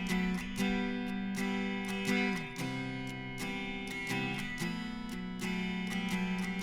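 Acoustic guitar strummed in a steady rhythm, the chords changing a few times.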